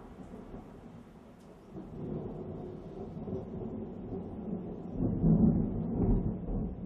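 Thunder rumbling low and long, swelling from about two seconds in to its loudest around five to six seconds in.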